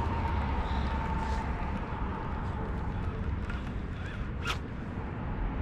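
Steady low rush of water at a river spillway, with wind on the microphone, and one short zipping sound about four and a half seconds in.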